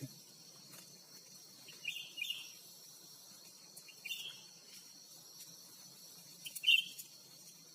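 Short bird chirps, a few scattered calls with the loudest near the end, over a steady high insect drone.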